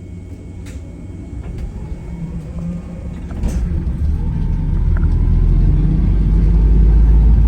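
Gemini 2 hybrid double-decker bus heard from inside the cabin, its engine rumble building from about three seconds in as the bus picks up speed.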